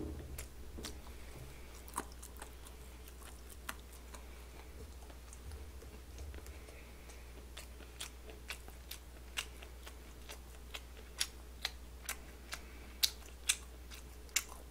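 Close-miked eating: soft chewing with sharp wet mouth clicks and smacks, scattered at first and coming more often in the second half, as pieces of kimbap are taken and chewed. A faint steady low hum underneath.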